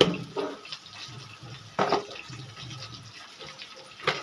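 A metal spoon clinking and scraping in a kadhai of spiced vegetables, with sharp knocks at the start, about two seconds in and near the end.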